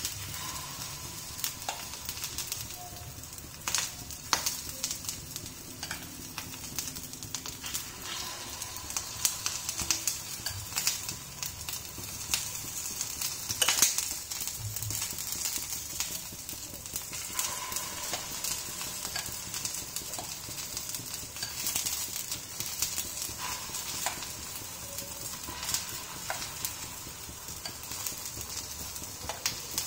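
Eggplant rings frying in hot oil in a non-stick pan, a steady sizzle, with frequent clicks and scrapes of a metal spoon against the pan as an egg and vegetable batter is spooned into the rings.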